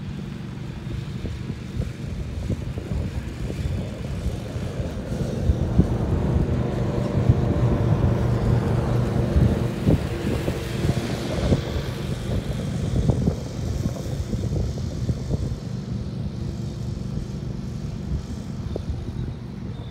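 Boat engine running as a vessel passes, a steady droning hum that grows louder toward the middle and then eases off, with wind rumbling on the microphone.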